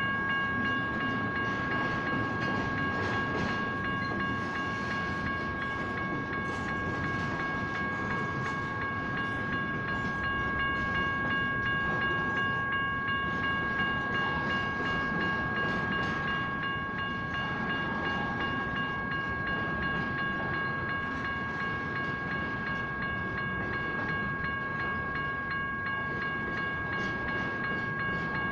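Railcars rolling through a grade crossing, a steady rumble with scattered wheel clicks, while the crossing's electronic bell (General Signals Type 1) rings on without pause as a steady electronic tone.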